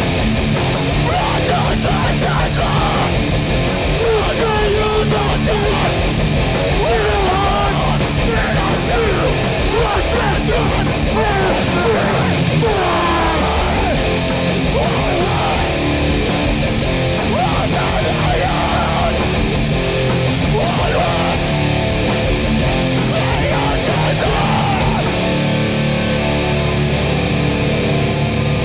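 Live hardcore punk band playing loud with no vocals: distorted electric guitars, bass and drums. The high end thins out near the end.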